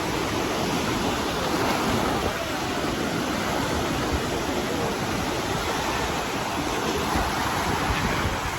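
Ocean surf: waves breaking and washing in as a steady rushing noise.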